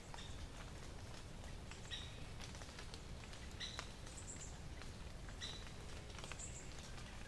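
Wild birds calling, a short call repeating about every two seconds with higher thin notes between, over faint scattered clicks and a steady low rumble.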